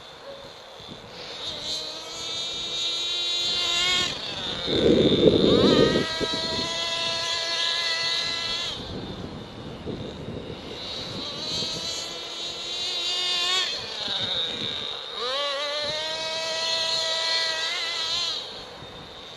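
Small .28 nitro engine of an RC monster truck running with a high, buzzing whine that climbs and falls again and again as the throttle is blipped and released. A loud low rumble breaks in about five seconds in.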